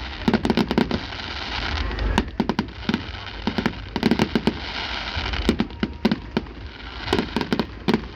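Fireworks crackling: rapid clusters of sharp pops, a new cluster every second or so throughout.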